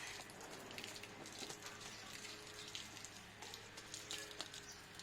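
Faint, irregular pattering of water splashing and dripping, with scattered small ticks over a low hum.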